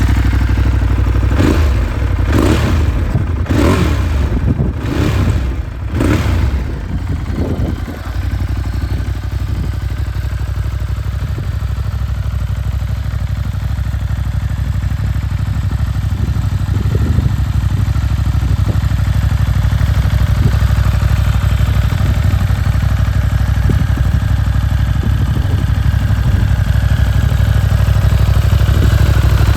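Ducati Monster 1200's L-twin engine through a Termignoni exhaust, blipped in about five quick revs in the first few seconds, then settling to a steady idle.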